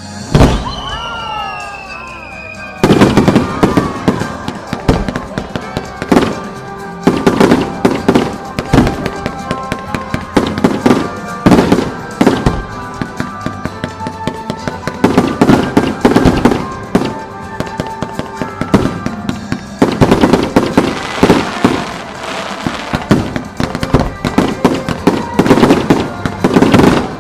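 Fireworks display: aerial shells bursting in rapid salvos, a near-continuous barrage of booms and crackle that thickens into dense volleys twice. Music plays along underneath.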